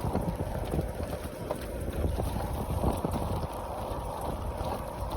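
Wind buffeting the microphone of a moving bicycle, a steady low rumble with scattered small knocks from the road.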